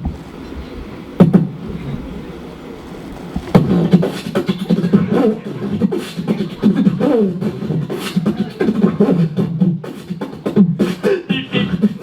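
Wordless vocal sound effects made with the mouth and voice, beatbox-like, with sharp clicks and pops. The vocalising thickens into a near-continuous run of gliding voice sounds about three and a half seconds in.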